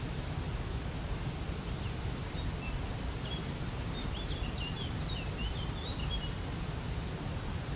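Steady rush of a waterfall, with a small bird chirping a quick series of short high notes for a few seconds in the middle.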